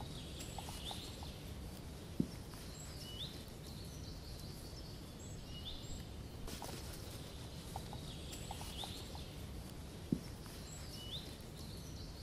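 Faint woodland birdsong: short rising chirps and high notes from small birds, over a low steady background hum of the outdoors. There is a soft knock about two seconds in and again near the end, and the same pattern of calls comes round about every eight seconds.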